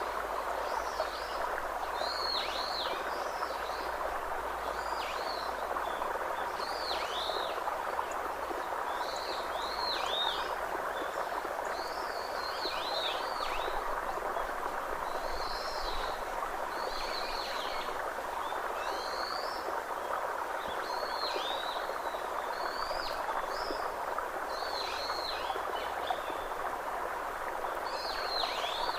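A bird calling over and over in short high notes that sweep downward, about one every second or two. Under it runs a steady, even rushing noise.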